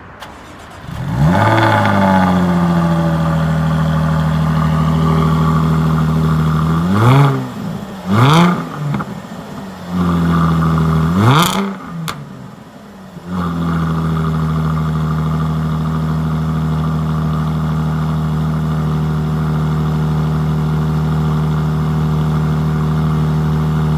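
2015 Jaguar F-Type V6 S's supercharged 3.0-litre V6 cold-starting: it catches about a second in, flares, and settles to a steady high idle. The engine is revved three quick times in the middle of the idle. It cuts out briefly near the middle, then comes back abruptly to a steady idle.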